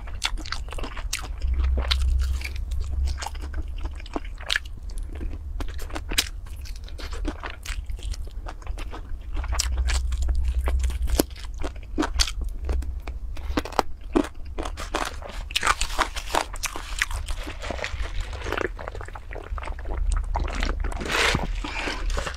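Close-miked eating of crispy fried chicken: steady biting and chewing with many sharp crunches and crackles of the coating, over a low hum.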